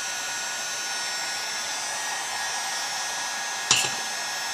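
Electric heat gun blowing steadily, a constant fan hiss with a faint whine, as it heats the chainsaw crankcase for bearing installation. A short sharp click sounds about three-quarters of the way through.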